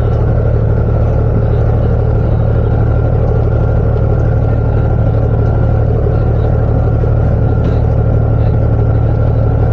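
Sightseeing boat's engine running steadily under way, a constant low drone with an even hum.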